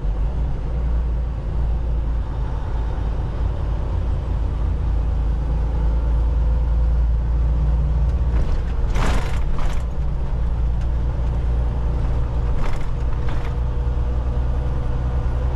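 Semi truck's engine and road noise heard inside the cab, a steady low drone, with a few brief sharp sounds around the middle and again a little later.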